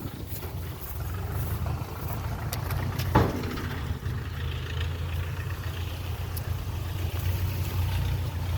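An engine running steadily with a low rumble, with one sharp knock about three seconds in.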